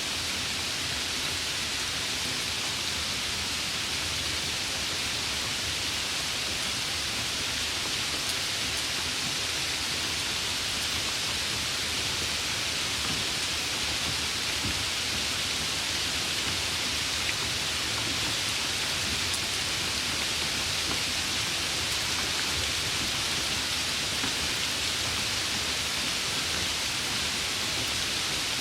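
Steady rain falling: an even hiss of rainfall with no distinct drops or thunder standing out.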